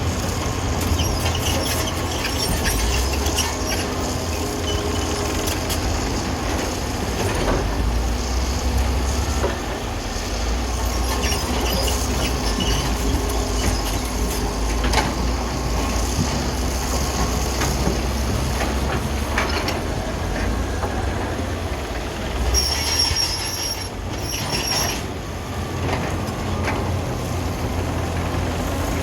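Heavy wheel loader's diesel engine running steadily with a deep rumble, broken by scattered metallic knocks and clanks. A high-pitched squeal sounds for about two seconds near the end.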